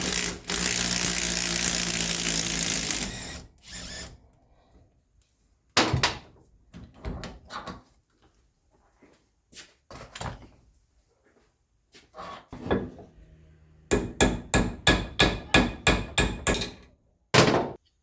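Hammer blows during work on a Kubota B1600 tractor's rear axle. There are a few spaced single blows, then a quick run of about a dozen at roughly four a second, and one last blow near the end. Before them come about three seconds of loud steady mechanical noise.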